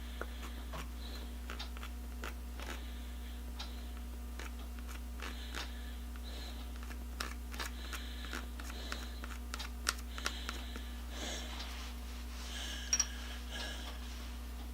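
Scattered light clicks and short scraping sounds of hand work on metal at a bench, busier in the second half, over a steady low hum.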